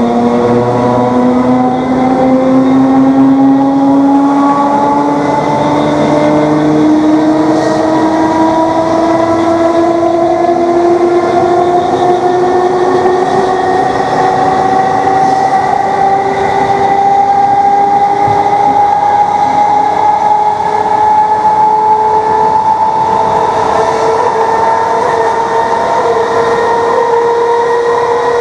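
Class 321 electric multiple unit's traction motors whining under power, several tones climbing slowly and steadily as the train gathers speed, over the loud rumble of the running train.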